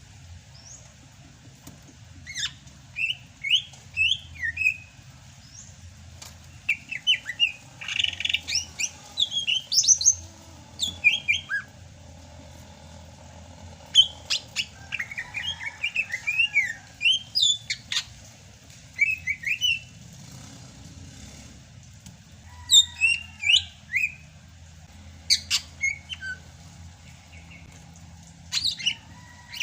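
Sumatran cucak hijau (green leafbird) singing in repeated bursts of rapid, high chirping notes with short pauses between phrases, over a faint low steady hum.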